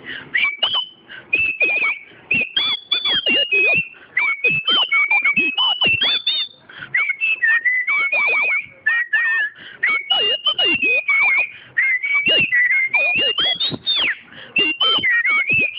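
A woman whistling a tune with her lips: a lively melody of quick, gliding notes that carries on without a break.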